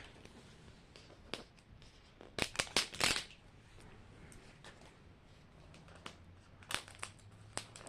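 Plastic packaging of Mini Brands miniatures rustling and crinkling by hand in short bursts, loudest about three seconds in, as a capsule is opened.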